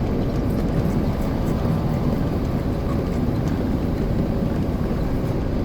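Steady rumble of a loaded truck's engine and road noise, heard from inside the cab while driving.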